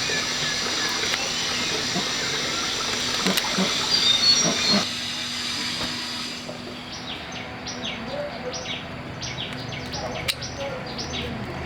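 Steady hiss of rushing water with bird calls over it; about five seconds in it drops away, leaving a quieter backdrop of short, falling chirps repeating about twice a second.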